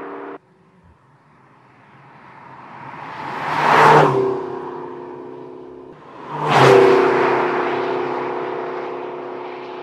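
McLaren GT's twin-turbocharged 4.0-litre V8 driving past twice, each pass building to a loud peak with a rush of noise and then fading away. The first pass starts after an abrupt cut about half a second in, and the second follows a few seconds later.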